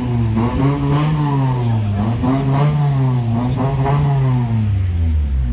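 An engine being revved over and over, its pitch climbing and sinking in slow swells about three times before it cuts off suddenly.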